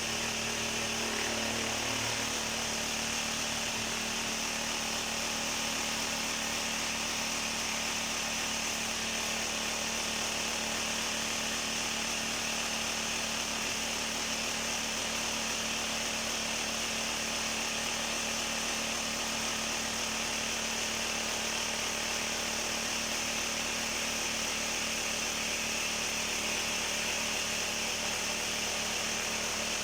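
Vibrating table for casting concrete, its motor running with a steady hum and rattle while it shakes a freshly poured mould.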